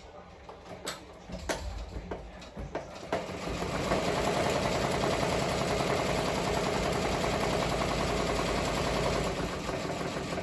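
Ricoma MT-1501 15-needle embroidery machine running and stitching steadily for about six seconds: a fast, even mechanical clatter. It starts a few seconds in, after some scattered clicks and knocks, and stops just before the end.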